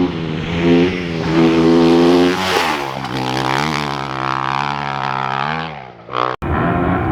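Off-road race motorcycle engines revving and passing. One bike goes by about two and a half seconds in with its pitch falling, and the sound breaks off abruptly just past six seconds, then another engine carries on.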